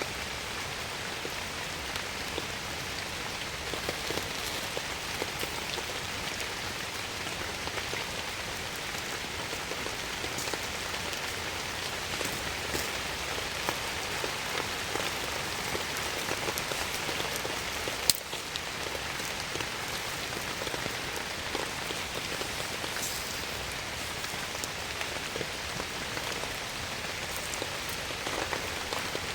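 Steady rain falling, an even hiss of drops. About two-thirds of the way through there is one sharp click.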